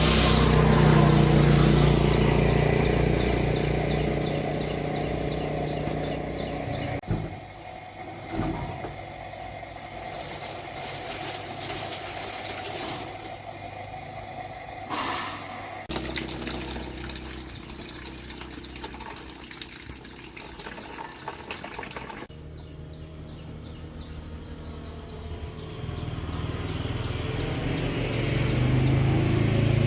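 A machine's motor running with a steady hum, loud at first and again near the end, quieter in between, heard in several short stretches that change abruptly.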